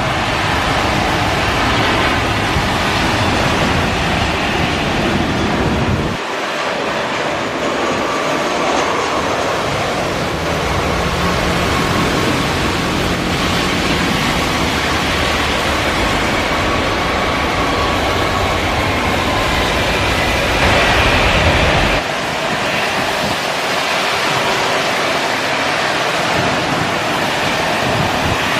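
Jet airliner engine noise: a loud, steady rushing roar with a faint high whine in the middle. The sound changes abruptly twice, as if cut between shots.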